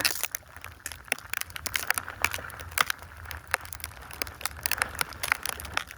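Irregular crackles and clicks of rustling and handling right at the phone's microphone, over a faint low rumble.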